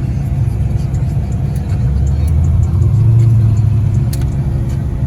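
Car engine running with a deep low rumble, revving up louder and higher about two seconds in and easing back down near the end.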